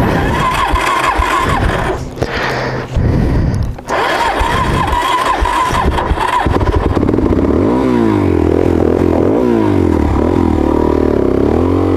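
Suzuki DRZ400S single-cylinder four-stroke being cranked on its electric starter in three attempts with a steady whine. It catches about six and a half seconds in and runs with revs that rise and fall unevenly. This is the hard starting and rough running that the rider puts down to a tank of bad gas.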